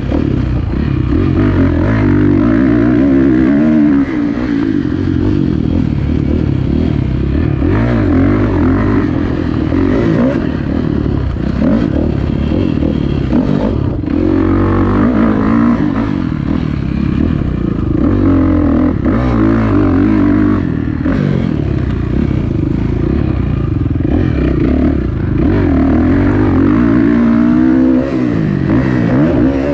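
Kawasaki KX450F four-stroke dirt bike engine under hard riding, revving up and falling back over and over, with a few short dips where the throttle is shut off.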